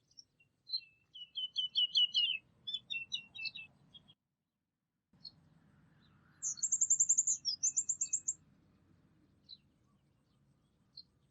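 Small songbirds singing: a quick run of falling whistled notes in the first few seconds, then a rapid high trill repeated twice about six to eight seconds in, with scattered single chirps. A faint low background rumble runs beneath.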